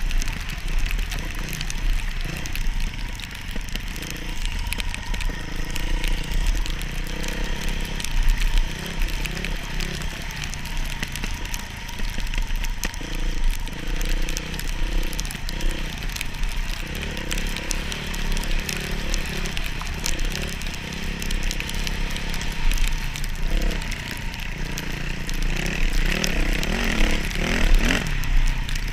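Motocross dirt bike engine running under way, its note rising and falling as the throttle is worked.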